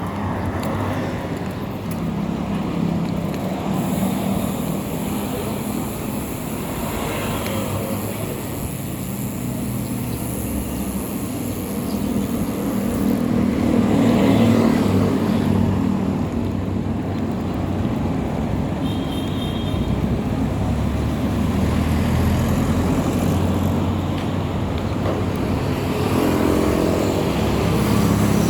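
Steady motor-vehicle engine and road noise, swelling louder for a couple of seconds about halfway through.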